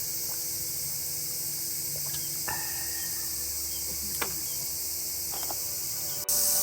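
A dense, steady, high-pitched chorus of summer insects in forest, with a few faint light clicks. Near the end it cuts abruptly to a louder stretch of the same insect chorus.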